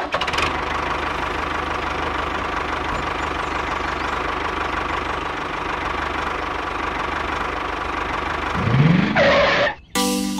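Steady engine running noise of a miniature toy tractor pulling a trailer, with a sound rising in pitch about nine seconds in. A chiming music jingle starts just before the end.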